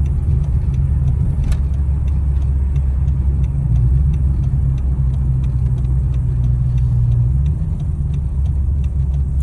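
Steady low drone of a car's engine and road noise heard from inside the cabin while driving, with a faint, evenly spaced ticking over it.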